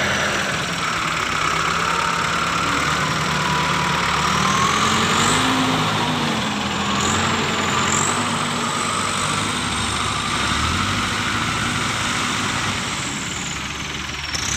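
Heavy vehicle engine running under load, its pitch rising and falling a little as the throttle varies, with a high whine above it.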